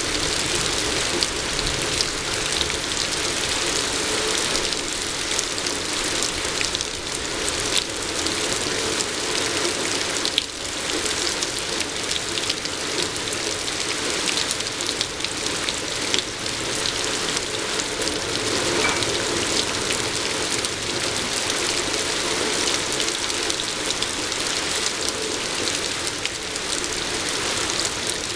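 Steady rain falling, with the sharp hits of single drops standing out against the even wash of rain.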